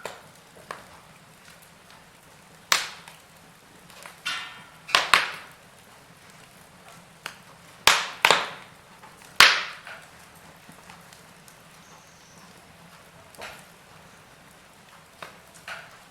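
Wood fire in a fireplace crackling: sharp pops and cracks over a soft steady hiss, with a run of loud ones in the middle and fainter ones near the end.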